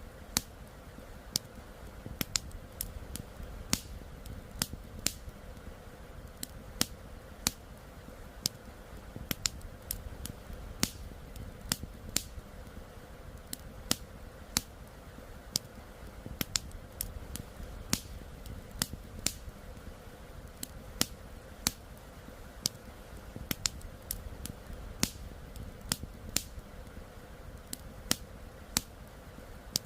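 Wood campfire crackling: irregular sharp pops and snaps, a few a second, over a steady low rumble.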